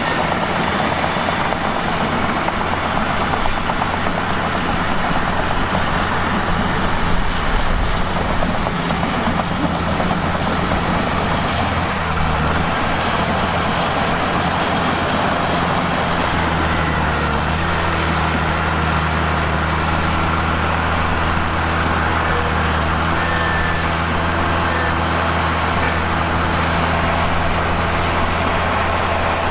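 Mitsubishi bulldozer's diesel engine running steadily while pushing rock, with a noisy mechanical clatter over the engine hum. The engine note shifts about halfway through, then holds steady.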